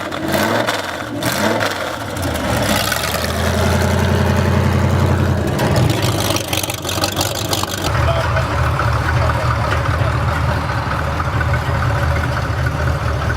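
Rat rod truck's engine running, pulling hard and steady from about three seconds in, easing off near six seconds, then running steadily again from about eight seconds on.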